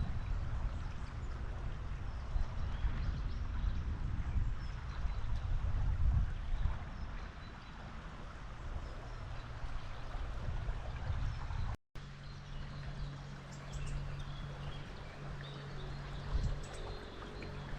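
Running river water, a steady rushing. About two-thirds of the way through the sound drops out for a moment, then the water resumes with a steady low hum under it and a few faint bird chirps.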